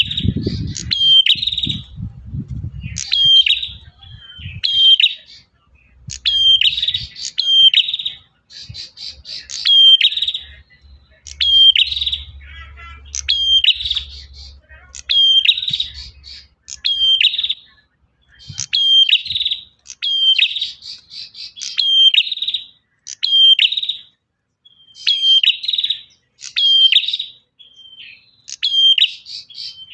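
Male prinia (prenjak) singing a loud, insistent call: sharp, high notes that sweep downward, repeated about once a second and often in quick pairs.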